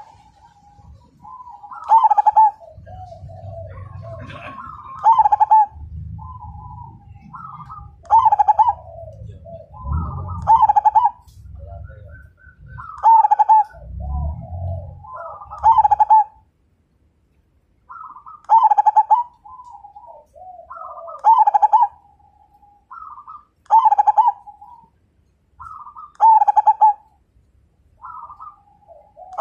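Zebra dove (perkutut) cooing: repeated phrases of short coos, each ending in a loud, ringing note, about every two and a half seconds. A low rumble lies under the calls through the first half.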